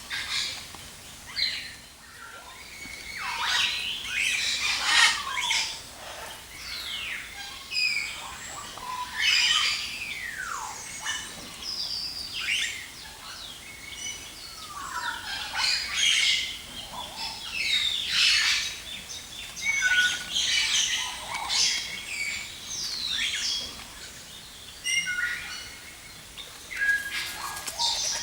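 Many birds chirping and whistling at once: a dense chorus of overlapping short calls and chirps, with some longer falling whistles.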